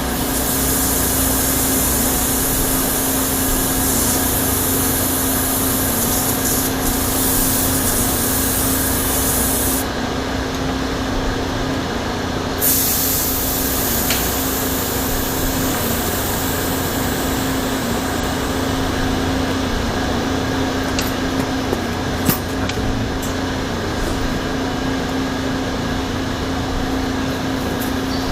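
Air hissing out of a bicycle tyre's valve as the tyre is let down: one hiss of about ten seconds, a short break, then a second hiss that trails away. A few light clicks follow later.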